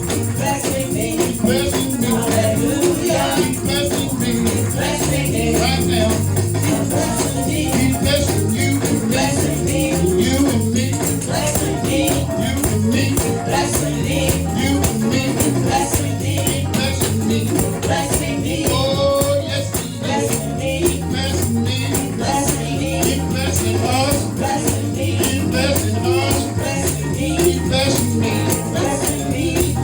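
Live gospel praise music with a steady beat, bass, and a shaker or tambourine keeping time, with voices singing along.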